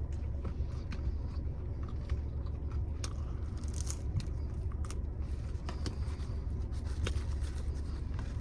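Close-up biting and chewing of square-cut pizza, with small crunches and mouth clicks scattered through, over a steady low car-cabin rumble.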